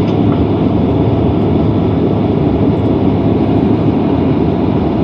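Steady cabin noise inside a Boeing 767-300ER on the taxi after landing: a continuous low rumble and hiss from its idling GE CF6 turbofans and the airframe rolling on the taxiway.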